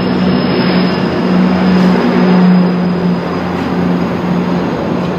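GO Transit commuter train arriving at the station: a steady engine drone over a wide rumble of wheels and cars, swelling slightly about halfway through and easing again.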